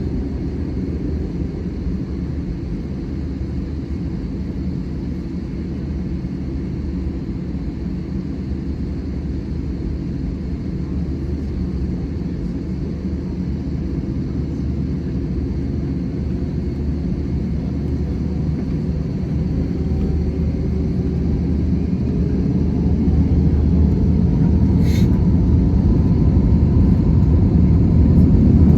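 Airbus A320-200 cabin rumble from the engines and airframe while the aircraft moves on the ground, growing louder over the last several seconds as faint engine tones rise in pitch. A short click sounds near the end.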